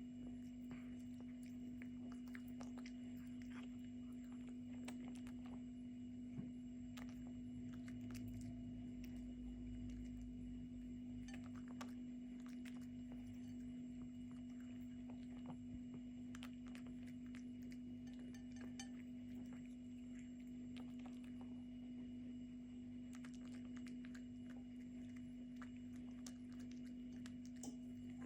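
A cat chewing chicken: many small, irregular wet clicks and crunches, faint, over a steady low hum.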